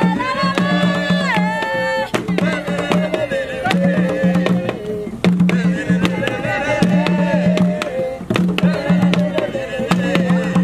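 A jongo song: voices singing over hand drums beaten in a steady rhythm, with a repeating low drum tone and sharp slaps throughout.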